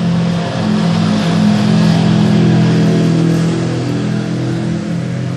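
An engine running close by, its sound swelling up and then easing off slightly near the end.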